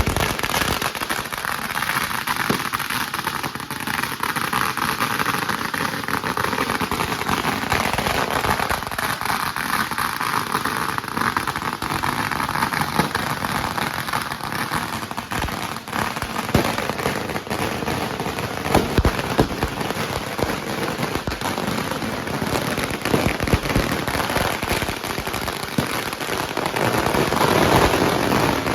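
Firework display: dense, continuous crackling from crackle-effect fireworks, with a few louder bangs through it.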